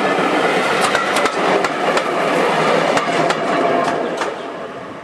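Railway passenger coaches rolling past close by, their wheels clicking irregularly over the rail joints. The sound fades away after about three and a half seconds as the last coach passes.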